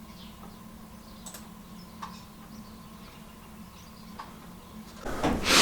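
A few faint, scattered clicks of a computer mouse over a steady low hum. Near the end a loud rush of broad noise comes in.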